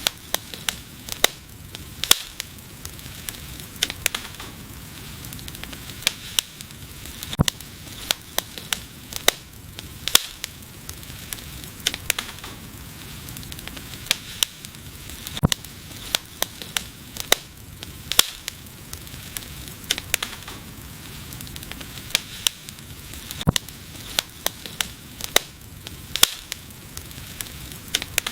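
Wood fire burning, a steady hiss with irregular sharp crackles and pops, several a second.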